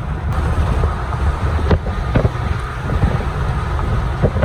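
Gusty wind buffeting the microphone: a loud, steady low rumble, with a few short knocks.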